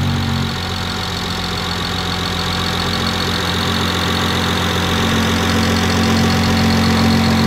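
BMW N54 inline-six engine with a single-turbo conversion, idling steadily at about 900 rpm just after being started.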